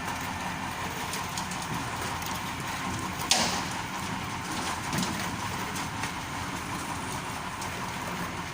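Mixer truck's Fuso 8DC9 V8 diesel engine running steadily. There is one sharp knock about three seconds in.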